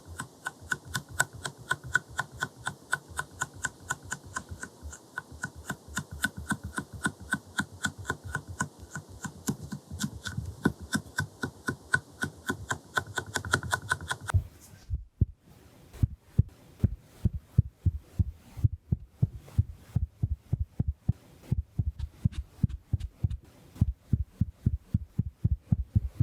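Makeup tools dabbed rhythmically against the microphone in close ASMR tapping, about three soft taps a second. About halfway through, the taps change to duller, deeper ones.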